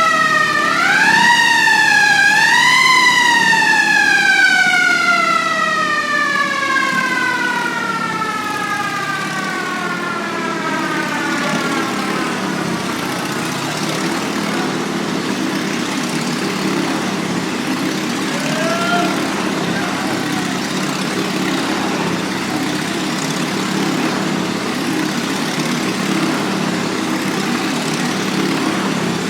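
A siren winds up in two quick surges, then winds down slowly for about ten seconds, with one short chirp later on. A motorcycle engine runs steadily underneath throughout.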